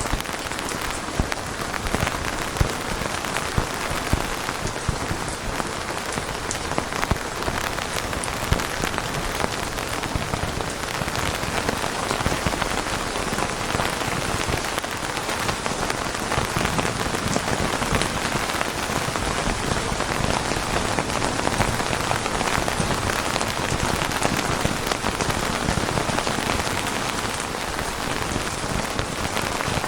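Steady heavy rain falling on a surface, a dense even hiss with many separate drops ticking through it.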